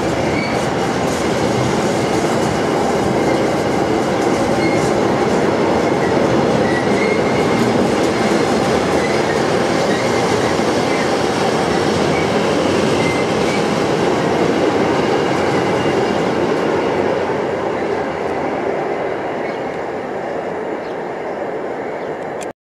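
Freight train of covered double-deck car-carrier wagons rolling past: a steady rumble and rattle of wagon wheels on the rails, with a faint squeal now and then. It fades as the last wagons go by and stops abruptly near the end.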